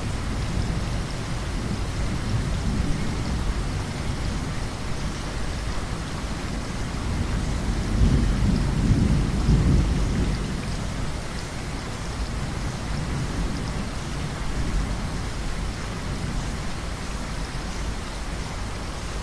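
Heavy rain falling steadily with thunder rumbling low underneath; the rumble swells to its loudest about eight to ten seconds in, then dies back.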